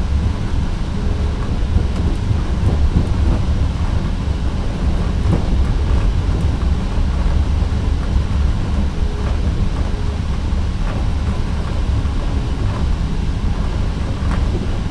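Steady low rumble of the Indian Pacific passenger train running at speed, heard from inside the carriage, with a few faint clicks along the way.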